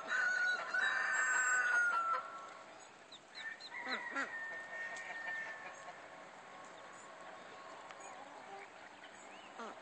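Rooster crowing: one long crow over the first two seconds ending on a falling note, then a second, fainter crow about four seconds in. Short high peeps of ducklings sound between the crows.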